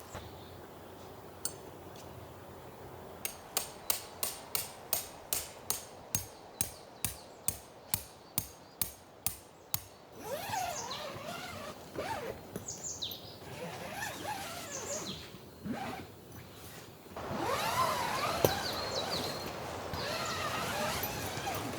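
A run of about twenty evenly spaced sharp knocks, some three a second, which stop about ten seconds in. After them, birds chirping and calling, louder near the end.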